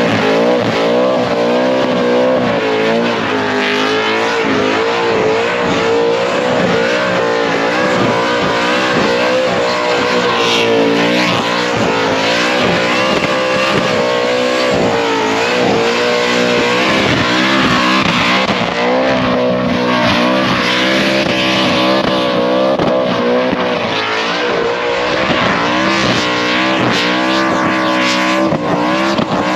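Blown Chevrolet V8 with a 10/71 supercharger in a Hilux skid car, held at high revs through a burnout. The engine note wavers up and down as the throttle is worked, over a steady hiss of spinning tyres.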